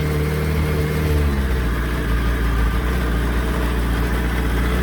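Yamaha YZF R1 inline-four engine running steadily at raised revs during a test run after a rebuild, its note changing about a second and a half in. The mechanic judges it running better and cleanly.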